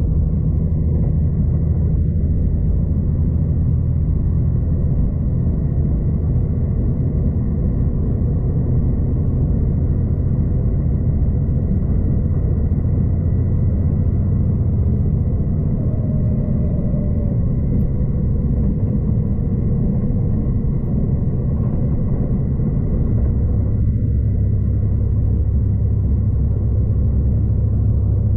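Steady low rumble and hum of a V/Line passenger train running along the line, heard from inside the carriage; the low hum shifts slightly about three quarters of the way through.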